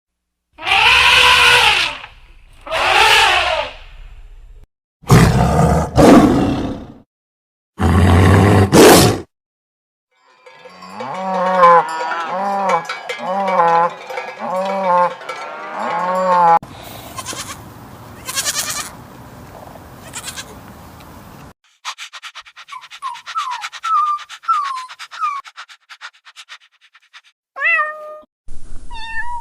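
A string of different farm animal calls, one clip after another: two long calls, then two louder, rougher ones, then a rapid run of repeated calls, and later short high chirps.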